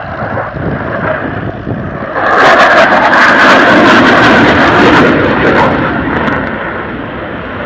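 Dassault Rafale jet passing: the twin turbofan engine noise swells sharply about two seconds in, stays loud with a crackling edge for about three seconds, then fades.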